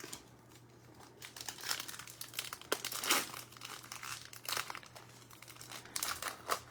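Plastic trading-card pack wrapper being crinkled and torn open, in a run of irregular crackles and rustles.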